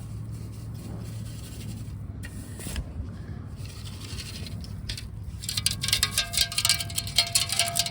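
Scraping and digging through playground ground to recover a metal-detector target. From about five and a half seconds in comes a rapid run of clicks with a steady tone in it.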